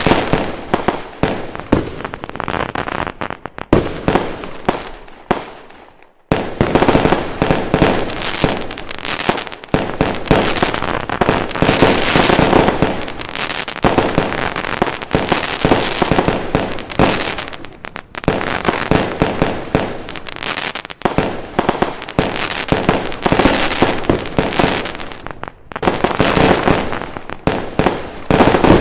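Fireworks going off in rapid volleys of bangs and crackles, with one brief lull about six seconds in and several shorter dips.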